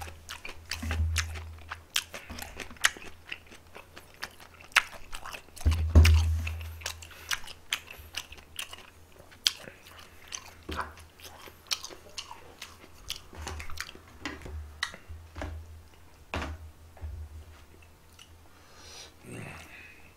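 A person chewing food close to the microphone, with wet clicking and crunching mouth sounds. A few dull low thumps come through, the strongest about six seconds in.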